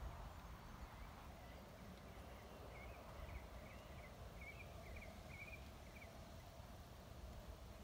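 Quiet outdoor ambience: a faint low rumble and, from about two and a half to six seconds in, a string of faint, short high bird chirps.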